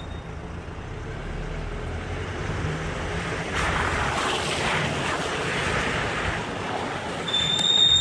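Mercedes car on the move: low road and tyre rumble, with a louder rushing hiss for a few seconds midway. Near the end the brakes start a high-pitched squeal from cheap aftermarket brake pads that still squeal after a week of bedding in.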